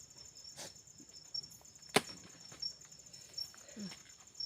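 A few sharp knocks of hard objects being handled and set down, the loudest about two seconds in. Insects chirp steadily and high in the background.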